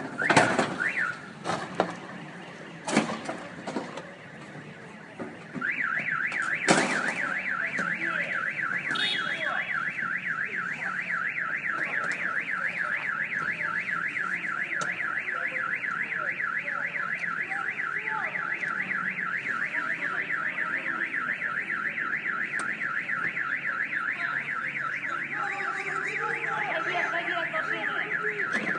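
A few loud bangs, then an electronic alarm of the kind car alarms use starts about five seconds in. It warbles rapidly up and down without a break.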